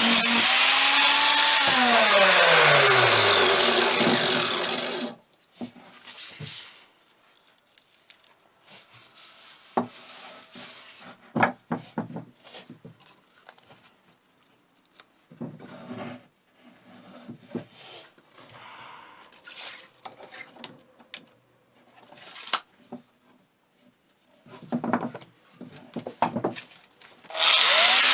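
A power tool runs at full speed, is switched off about a second in, and its motor winds down in falling pitch over a few seconds. Then come scattered knocks, scrapes and taps of hand work on the parts, and the power tool starts up again at full speed near the end.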